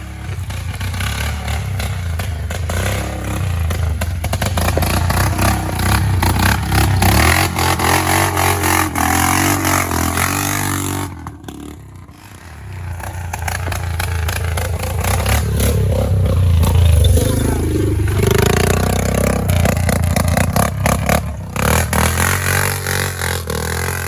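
Straight-piped mud truck engine revving and running loud through open exhaust, with rattling clatter. About halfway through the revs drop off briefly, then build up again.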